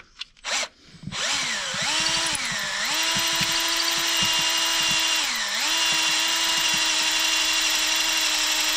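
Electric drill boring out a broken timing-chain guide bolt hole in a 2.4-litre engine: a few clicks, then the drill motor spins up about a second in and runs steadily, its speed dipping briefly twice.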